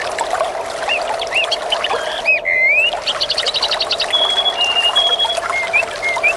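Water trickling and splashing steadily while several songbirds call over it: short chirps, a quick trill of about a dozen notes about three seconds in, then a few short level whistled notes.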